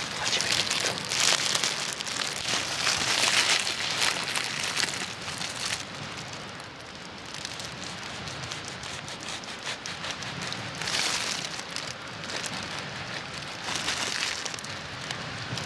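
Wood fire in a fire pit crackling and hissing, a dense run of small pops that swells louder several times and drops back.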